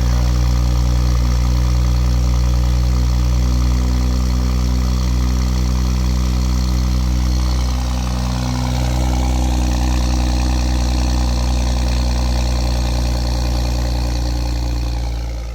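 BMW X3 M40i's turbocharged 3.0-litre inline-six (B58) running at its raised cold-start idle just after firing up, a steady exhaust note that wavers about halfway through and settles lower near the end.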